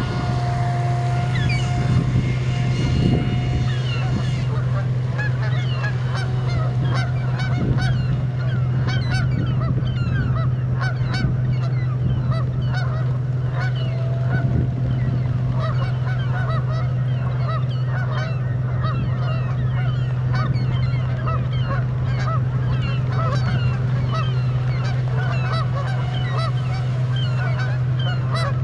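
A flock of geese honking, many overlapping calls without pause, as the birds are harassed and driven off by a remote-controlled boat. A steady low hum runs underneath.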